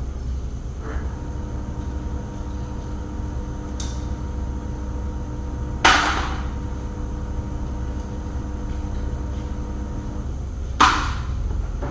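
Two loud, sharp blows on metal, about five seconds apart, each with a short ringing tail, likely a hammer striking metal during panel repair, with a couple of fainter knocks before them. A steady low hum runs underneath.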